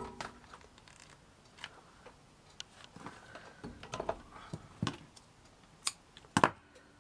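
Hands handling craft materials on a work table: scattered sharp clicks and taps with light rustling, and a louder pair of clicks near the end.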